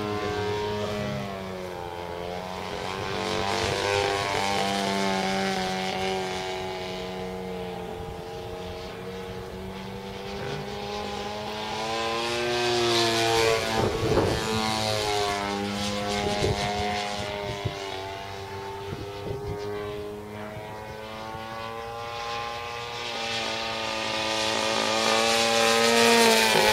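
Engine of a radio-controlled model aeroplane flying, its propeller drone rising and falling in pitch as it passes. It swells loudest about 4, 13 and 26 seconds in, then fades between passes.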